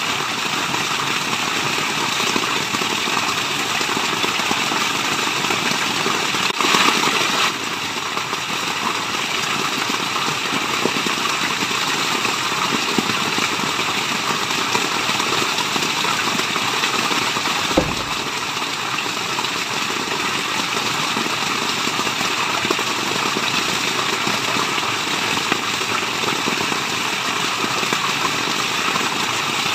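Steady rushing water of a waterfall, an even white-noise roar, slightly louder for a moment about a quarter of the way in, with one short knock a little past halfway.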